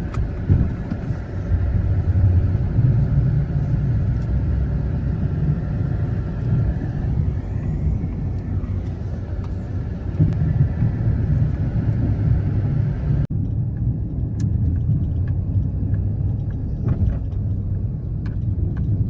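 Pickup truck engine running steadily under load as the truck pushes snow with its front-mounted plow. The higher sounds drop away abruptly about two-thirds of the way through while the engine continues.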